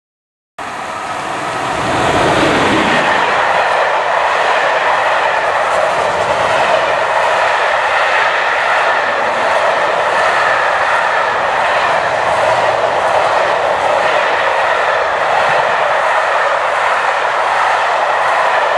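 A train running past close by on the track: a loud, steady rush of wheels on rail with some clickety-clack. It starts abruptly about half a second in.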